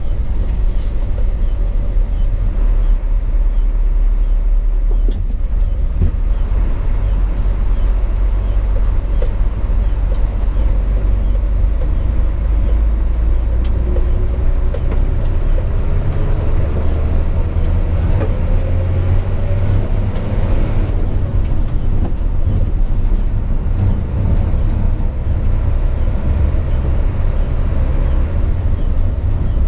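Hino 500 FM 260 JD truck heard from inside its cab while driving: a steady, loud low diesel rumble with road noise. Around the middle a faint whine rises in pitch over several seconds as the engine speeds up, and the sound changes a little after that.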